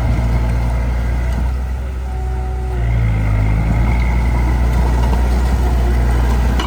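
Heavy diesel engine of earthmoving machinery running under load; its note eases off about two seconds in and picks back up a second later.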